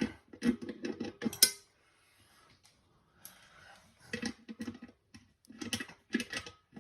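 Pliers clicking and clinking on the nut of a toilet tank-to-bowl bolt as it is tightened: a run of short metallic ticks, a quiet pause, then another run of ticks.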